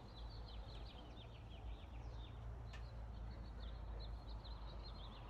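Small birds chirping: many short, quick downward chirps in steady succession, over a low steady rumble.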